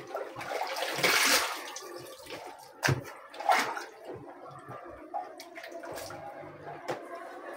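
Water sloshing and splashing in a semi-automatic washing machine's wash tub as blankets are pushed down into it, with a louder splash about a second in and a few short knocks later.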